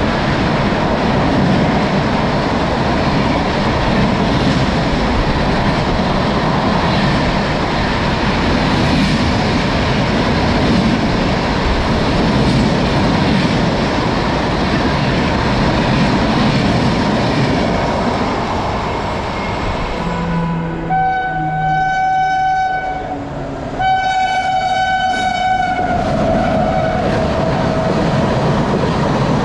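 An Indian Railways train running through a station at speed, with a steady noise of wheels on rails. About two-thirds through, two long horn blasts sound; the second slides lower in pitch as it trails off under the returning rail noise.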